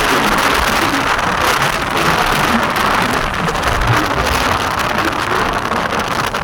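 Heavy rain falling in a steady, loud hiss, with scattered low rumbles underneath.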